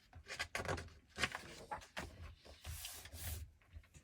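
Book pages being turned and handled: irregular paper rustling and rubbing, with a longer sliding swish about three seconds in.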